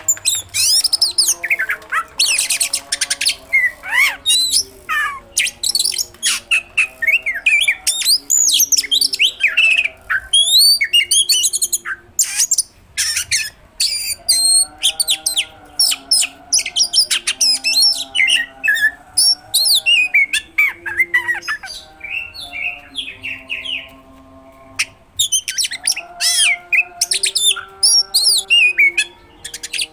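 Oriental magpie-robin singing non-stop: a fast run of varied whistles, chirps and harsh notes, full of calls mimicked from other birds, broken by two short lulls, one about half-way and one near the end.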